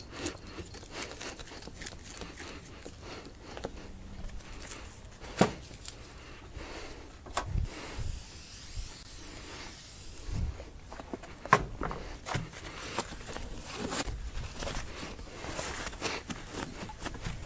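Scattered sharp clicks and a few dull low thumps over a steady faint hiss: the knocks of hands handling tools and materials while a new windshield is prepped on its stand.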